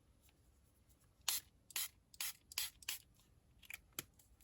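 Small spray bottle spritzing in quick puffs of hiss: about five sprays close together, then two fainter ones near the end.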